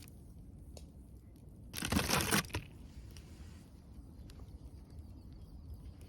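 A brief rustling crunch, under a second long, about two seconds in, over a low background with faint scattered ticks.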